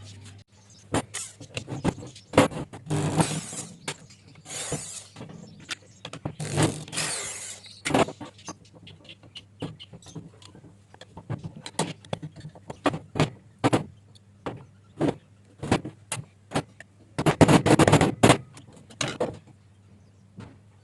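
Irregular clicks and knocks with a few longer scraping stretches: hand work with tools and metal parts. A low hum stops about half a second in.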